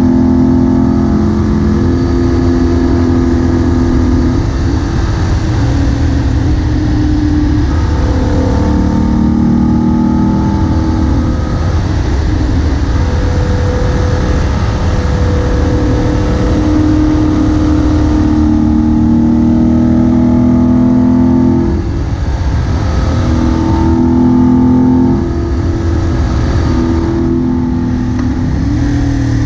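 Moto Guzzi Bellagio's air-cooled V-twin engine heard from the rider's seat while under way, its revs rising and falling repeatedly, with short dips in level about three-quarters of the way through and again near the end. A steady rush of wind runs underneath.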